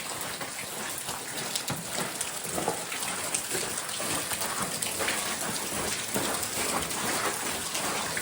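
Water drops pattering steadily, a dense spatter of many small ticks.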